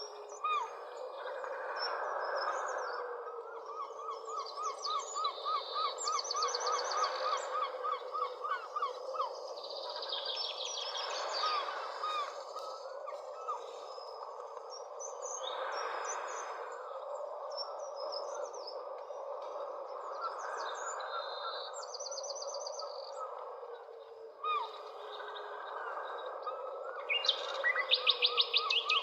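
Several birds chirping and trilling, one repeating a short note about four times a second for several seconds, over a steady background din of outdoor ambience.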